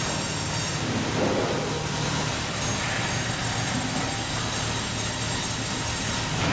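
Heavy machinery running steadily: a low engine hum under a broad, even mechanical noise.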